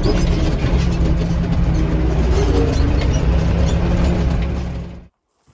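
Tractor engine running steadily under way, with a low hum; it cuts off suddenly near the end.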